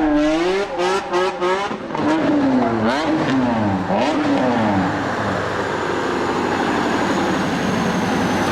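BMW E30 drift car's engine revved up and down about once a second under on-off throttle while drifting, with a few sharp cracks about a second in. It then settles into a steadier, rougher noise.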